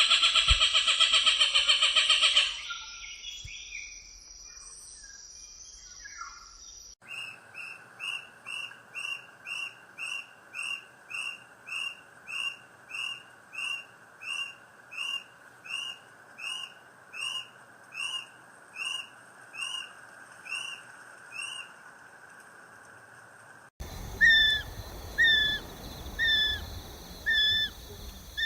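Calls of flightless birds from several recordings: a loud harsh call that stops about two seconds in, then a long series of short, evenly repeated falling notes about one and a half a second. Near the end a new recording starts, with louder repeated two-part calls.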